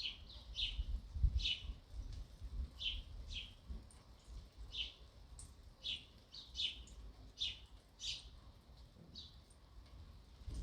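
Sparrows chirping: short, sharp chirps repeated about once or twice a second, with a low rumble underneath.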